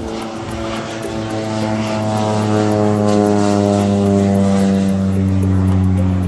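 Propeller-driven agricultural plane flying low past on a fertilizer-spreading run: a steady engine-and-propeller drone that grows louder and falls gently in pitch as the plane passes.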